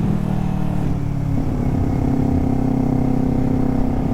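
Kawasaki Z400's parallel-twin engine running under way, its note dropping in pitch in the first second or so and then holding steady.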